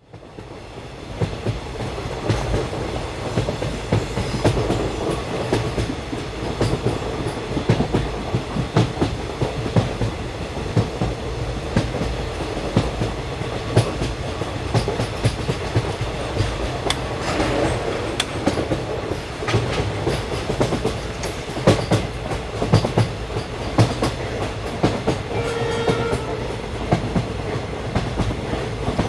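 Passenger train running at speed, heard aboard: a steady rumble with irregular clicks of the wheels over rail joints. It fades in over the first second, and a brief higher tone sounds near the end.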